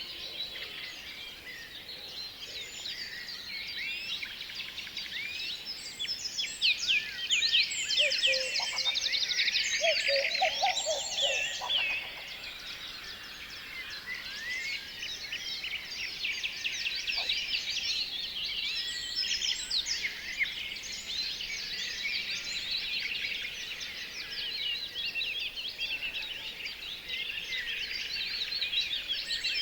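Many small songbirds chirping and calling over one another in a dense, continuous chorus of quick high chirps, busiest and loudest from about seven to twelve seconds in. A lower-pitched call joins briefly in the middle.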